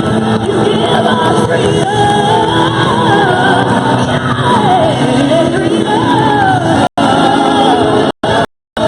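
A voice singing a melody over musical accompaniment. The audio drops out to silence briefly about seven seconds in and again in several short gaps near the end.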